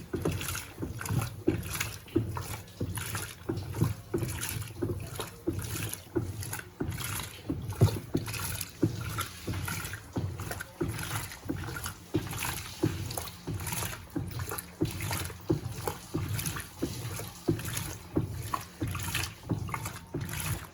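Electrolux Turbo Compacta 7 kg top-loading washing machine agitating a load of clothes in water, its agitator swishing back and forth in regular sloshing strokes, somewhat more than one a second, during the soak-and-wash stage.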